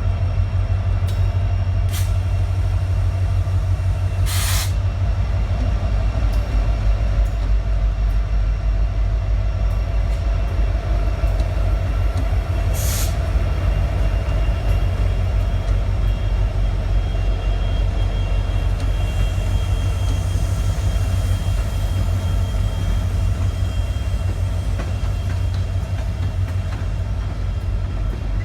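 A train on the rails with a steady, loud low rumble. Two short hisses come about four and thirteen seconds in.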